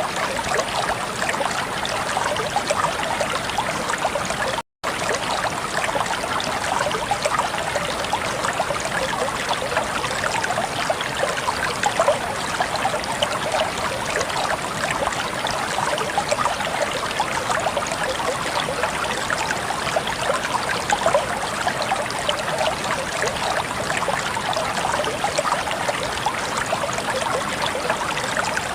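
Water flowing steadily in a stream, a continuous babbling and trickling, with a momentary dropout to silence about five seconds in.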